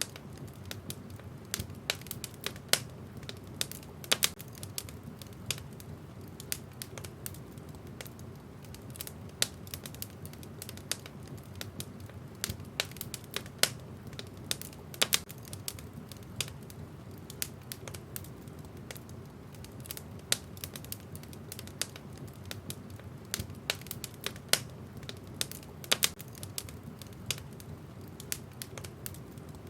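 Wood fire crackling in a fireplace: sharp, irregular pops and snaps several times a second over a steady low rumble.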